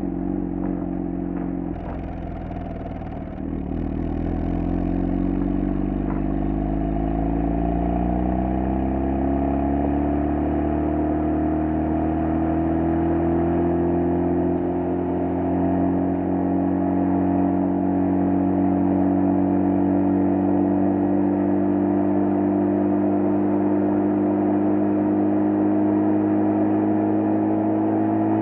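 Mazda RX-7 FD3S's twin-rotor 13B rotary engine exhaust, recorded close to the stock muffler, under full-throttle acceleration. The note grows louder about three seconds in, rises steadily in pitch for about ten seconds, then holds at a steady high pitch.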